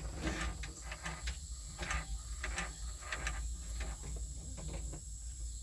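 Tractor turn-signal flasher clicking in a steady rhythm, about three clicks a second, over a low steady hum.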